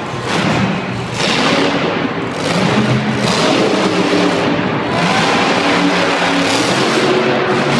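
Monster truck engines revving hard, the pitch rising and falling with the throttle.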